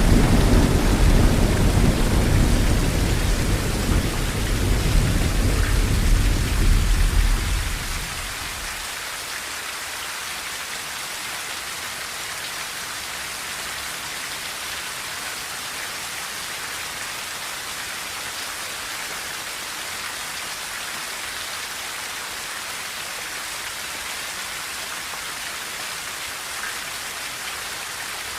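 Rain falling steadily on a tin roof, an even hiss. A low rumble of thunder rolls under it and dies away about eight seconds in.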